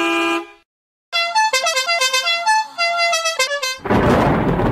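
Cartoon vehicle horn sound effects: a horn holding one steady note stops about half a second in, and after a short gap a quick tune of short high notes plays, like a musical horn. Near the end a loud rush of noise breaks in, the start of a rain and thunder effect.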